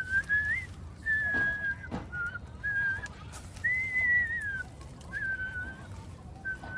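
A person whistling a slow tune: a single clear tone in a string of held notes with gentle slides up and down between them.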